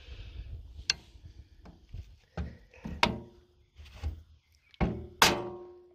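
Metal parts knocking and clanking as valve springs and collets on a stationary diesel's cylinder head are worked by hand: several separate knocks, the last and loudest a sharp metal strike that rings on for about a second.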